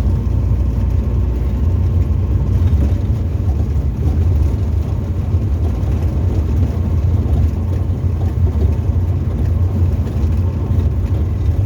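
Tecnam ultralight's piston engine and propeller running at a steady, unchanging speed, heard as a deep, continuous drone from the cockpit.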